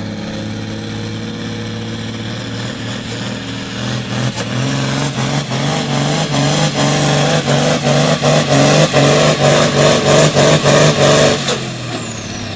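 Turbocharged diesel pro farm pulling tractor under full load. The turbo whistle climbs to a high whine, then the engine runs hard for about seven seconds, its sound pulsing roughly twice a second. Near the end the throttle shuts off and the turbo whine falls away.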